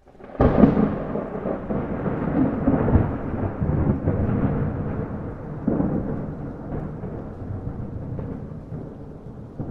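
A thunderclap breaks about half a second in and rolls on as a low rumble, swelling again near the middle and slowly fading, over heavy rain.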